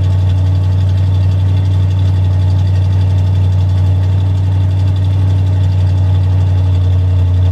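1977 GMC K25 pickup's engine idling steadily, heard at the exhaust tailpipe, with a strong even low hum. It is warming up on its first run after winter storage.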